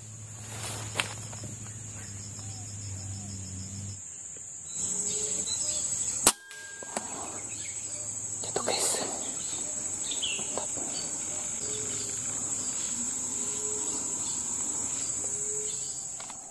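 Steady high-pitched insect drone, with a single sharp crack about six seconds in and a smaller click near the start.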